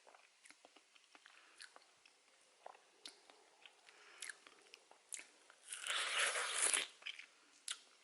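A person chewing and biting juicy canary melon flesh, with small wet mouth clicks throughout and a louder, noisier stretch about six seconds in.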